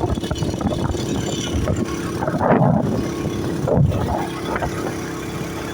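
Motorcycle engine running steadily while riding, with wind noise rushing over the microphone.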